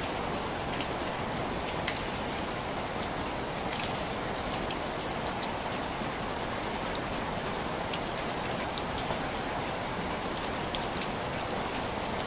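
Steady rain falling, with many individual drops tapping sharply on window glass over an even hiss.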